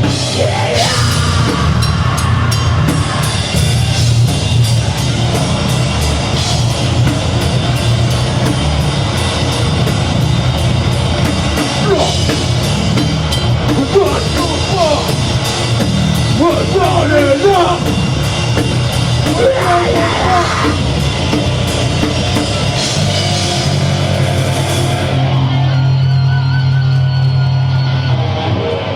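A deathgrind band playing live: very fast drumming under distorted guitars and bass, with harsh vocals through the middle. About four seconds before the end the drumming stops and a held low note rings on.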